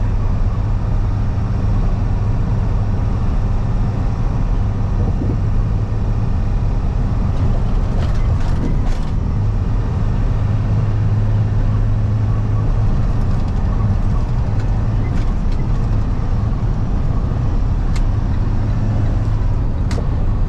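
Box truck's engine and road noise heard inside the cab while cruising on a highway: a steady low drone with no change in pace, broken by a few faint clicks.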